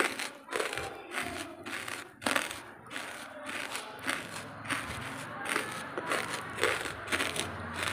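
Close-miked ASMR chewing of dry charcoal: a run of sharp, crisp crunches, roughly two a second, as chunks are bitten and ground between the teeth.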